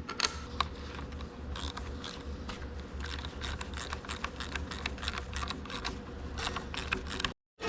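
Light, irregular metallic clicks and clinks of bolts and small parts being handled and started into the axle's retainer by hand, over a steady low hum. The sound drops out briefly near the end.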